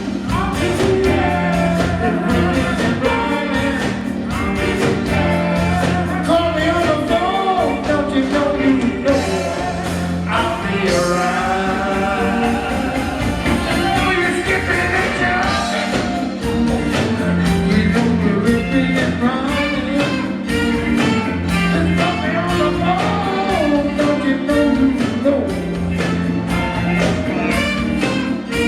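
Live disco-soul band playing, with lead and backing vocals over a repeating bass line, guitar and fast, busy drums.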